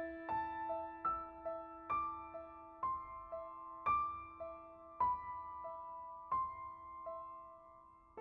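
Soft solo piano background music: a slow melody of single struck notes over a held low note, each note fading away.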